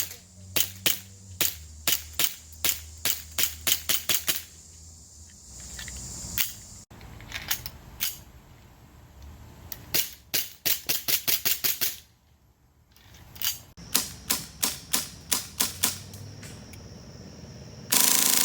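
Airsoft guns firing in strings of sharp shots, some single and some in quick runs. A low hum sits under the first half, and a loud burst of noise starts just before the end.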